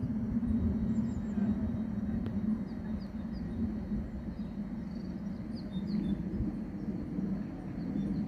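Steady low hum of electric trains standing at the platforms, with small birds chirping faintly and often above it.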